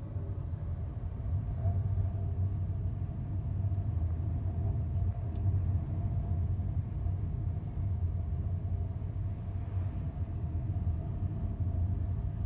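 Steady low drone of a ferry's engines and hull vibration heard on board, with a faint hum of tones above the rumble.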